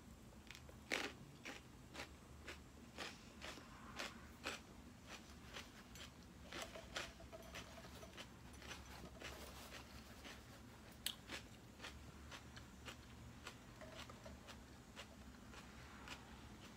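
Faint, close chewing of raw celery topped with chicken salad: a run of crisp crunches, about two a second at first, thinning out toward the end.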